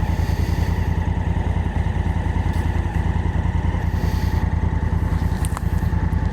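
Honda Africa Twin's parallel-twin engine running steadily at an even, unchanging pitch.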